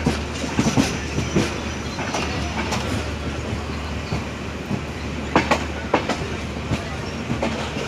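Diesel-hauled passenger train running along the track: a steady low rumble with irregular clicks and knocks as the wheels cross rail joints, the loudest a little past the middle.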